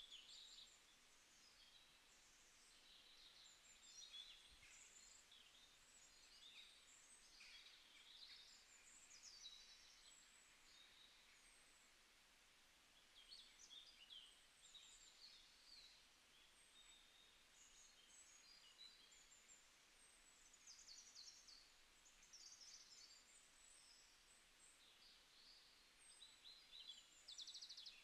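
Near silence, with faint, scattered high bird chirps.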